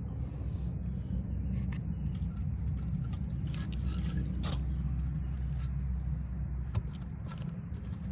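Wood fire in a fire pit crackling, with scattered sharp pops and snaps from the burning wood over a steady low rumble.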